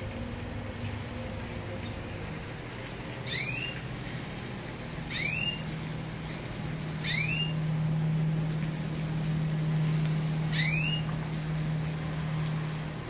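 A caged songbird gives four single, short chirps, each sweeping upward in pitch, a couple of seconds apart. A steady low hum comes in about halfway through.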